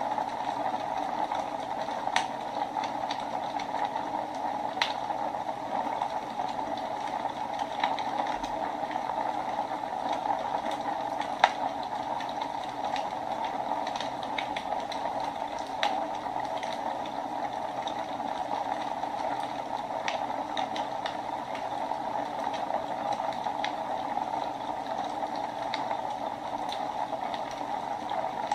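Wood fire burning in a fireplace: a steady crackling hiss with scattered sharp pops from the burning logs.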